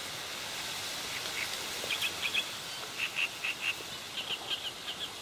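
A small bird chirping: short, high notes in quick groups of two or three, starting about a second in and repeating to the end, over a faint steady outdoor hiss.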